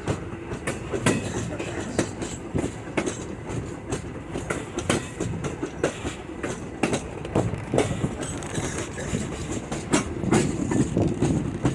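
Railroad passenger car rolling along the track: a steady low rumble with irregular clicks and knocks as the wheels pass over rail joints.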